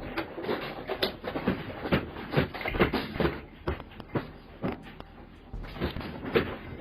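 Irregular knocks, thumps and clattering, several a second, with a quieter stretch about five seconds in.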